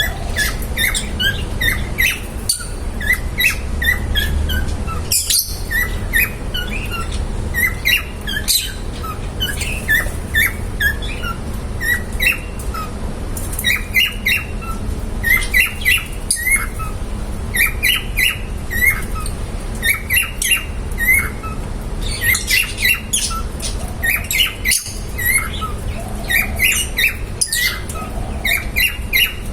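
Pet lovebirds chirping and squawking without pause, many short, sharp calls overlapping, over a steady low hum.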